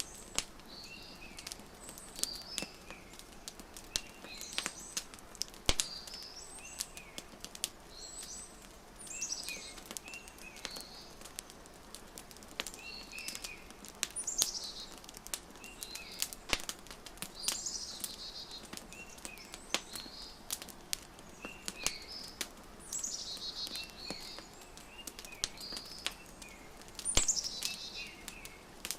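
Wood fire crackling with irregular sharp pops, mixed with birds chirping in short repeated calls and a few fast falling trills.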